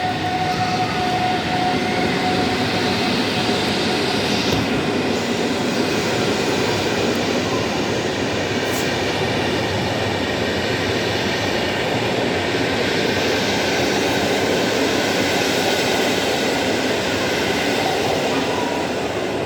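A passenger train running on the tracks close by, a steady loud rumble of wheels on rails with faint high tones over it.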